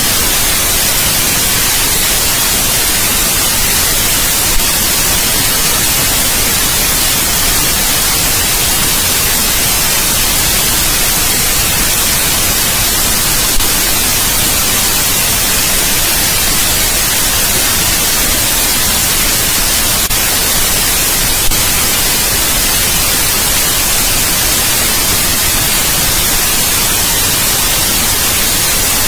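Steady white noise: an even, unchanging hiss, strongest in the high end, with three faint clicks spread through it.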